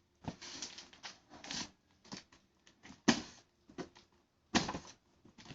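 Packaging rustling and scraping as a parcel is handled, with two sharper knocks about three and four and a half seconds in.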